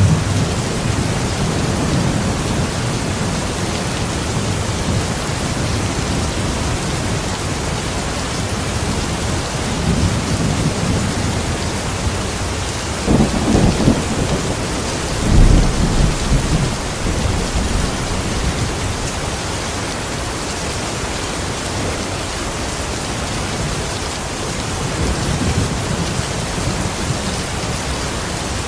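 Steady rain with low rumbles of thunder, two stronger peals about halfway through.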